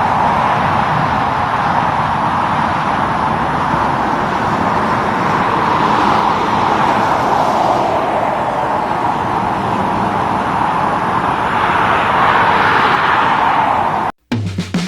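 Highway traffic passing: steady tyre and engine noise that swells and eases as vehicles go by, about three times. It cuts off suddenly near the end, and music begins.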